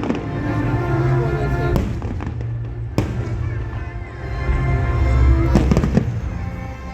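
Fireworks going off: several sharp bangs over a continuous low rumble, with a cluster of bangs near the end. Music plays throughout.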